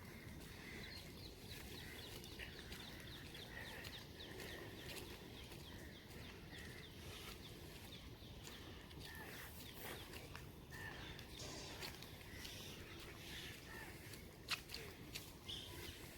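Light rain pattering and crackling, with birds calling through it, including a run of quick repeated chirps in the first half. There is a sharp click about fourteen seconds in.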